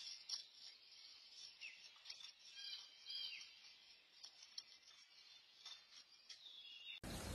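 Faint outdoor ambience with small birds chirping in short calls and a few light clicks. Near the end it gives way abruptly to a louder steady hiss.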